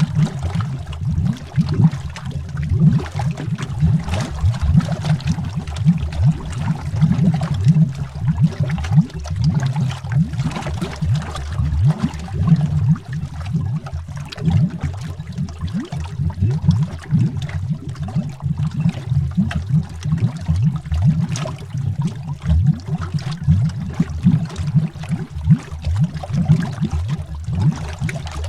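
Underwater bubbling heard through water: a continuous dense stream of low, gurgling bubbles, steady in level throughout.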